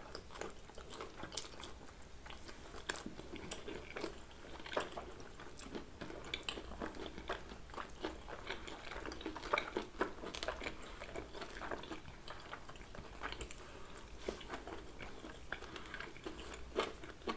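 Two people chewing and biting pizza close to the microphone: irregular soft mouth sounds with crisp crunches of crust scattered throughout.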